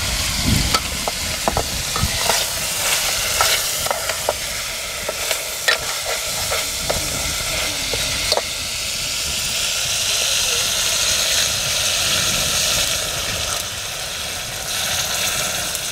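Meat curry frying in a metal pot, a metal ladle clinking and scraping against the pot as it is stirred, many sharp clicks through the first half. About nine seconds in the sizzle grows into a louder, steady hiss.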